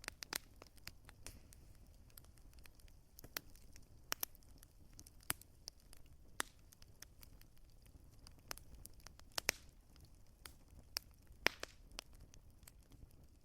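Wood fire crackling: irregular sharp pops and snaps, a few louder than the rest, over a faint steady hiss.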